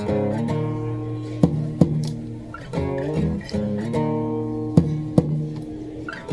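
Acoustic guitar strumming chords that change about once a second, with a few sharp percussive string hits and no singing.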